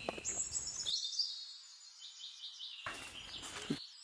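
Birds chirping and calling: a quick run of high, twittering notes in the first second, then further calls later.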